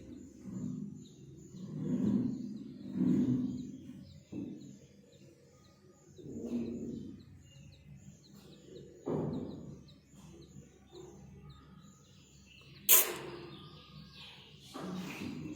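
Nestling birds cheeping faintly with short high peeps, over recurring low muffled rumbles, with a sharp crackle about thirteen seconds in.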